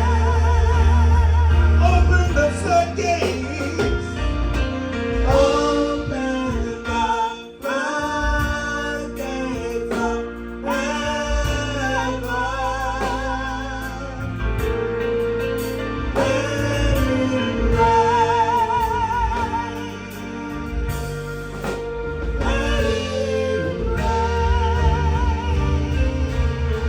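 Live gospel worship music: a singer holding long notes with wavering vibrato over a band with steady bass.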